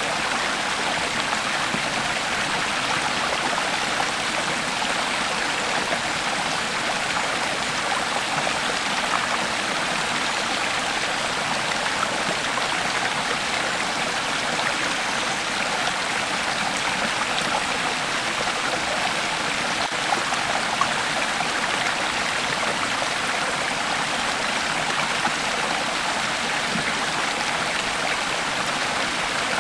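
A creek flowing steadily, its water babbling and trickling over stones in an even rush.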